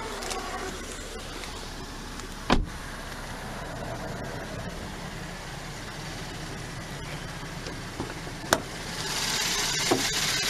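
A steady low hum around a car, with two sharp knocks: one about two and a half seconds in and one about eight and a half seconds in.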